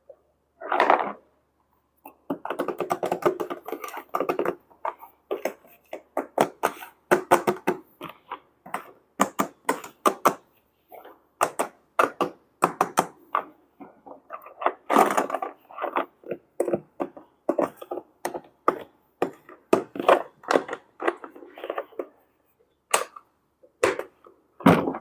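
Plastic toy pieces and packaging being handled in an unboxing: an irregular run of clicks, taps and knocks, with a denser stretch of handling noise about two seconds in.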